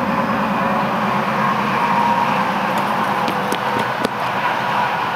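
Steady outdoor background noise, an even hiss and rumble with no sudden peak, broken by a few faint clicks about three to four seconds in.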